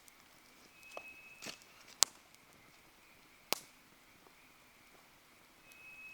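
Wood fire crackling: a few sharp pops and snaps over a quiet hiss, the loudest about two seconds in and another a second and a half later. A faint high thin whistle sounds briefly twice, a second in and near the end.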